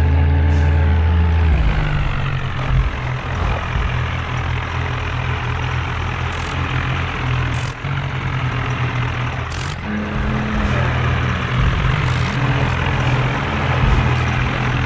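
Diesel tractor engines running hard, as in a tow to free a stuck tractor. The engine note is high at first, drops back about a second and a half in, then runs on steadily with a few short clicks and knocks.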